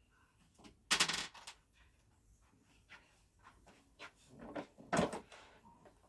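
Two short clunks of something being handled or knocked, one about a second in and one about five seconds in, with faint small knocks and rustles between them.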